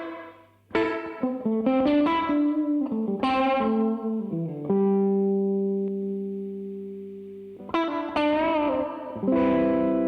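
Electric guitar played through a DemonFX Reverb & Delay Workstation pedal. A struck chord comes first, then a quick run of single notes, then a low note held and left ringing for about three seconds. Near the end a chord with wavering vibrato follows, and a last chord rings out.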